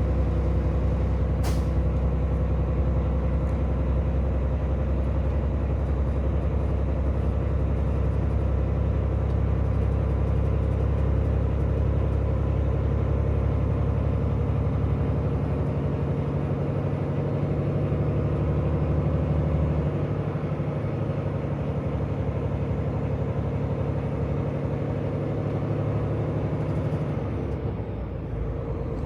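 Peterbilt semi-truck's diesel engine pulling steadily under load up a snowy ramp, with a brief click about a second and a half in; near the end the engine note drops away.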